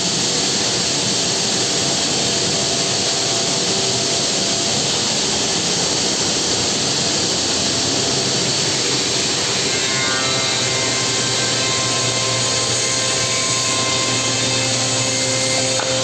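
Homag five-axis CNC machining centre running, its spindle cutting wood with a steady, loud noise that does not let up. A few steady tones join in about ten seconds in.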